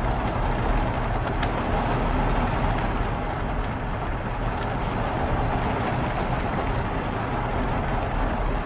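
Steady rain ambience, an even hiss with a low rumble underneath and a few faint drip ticks.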